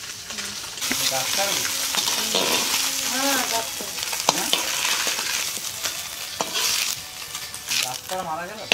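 Steady sizzling of food frying in a wok over a wood fire, with a few sharp clicks from a utensil against the pan.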